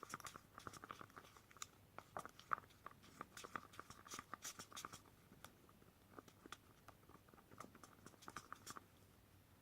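Two-part casting resin being stirred in a mixing cup: a quick run of faint scraping clicks as the stirrer drags against the cup, thinning out after about five seconds.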